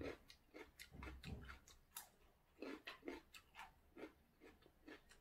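Faint, crisp crunching of raw cucumber being chewed: a string of short, irregular crunches, several a second.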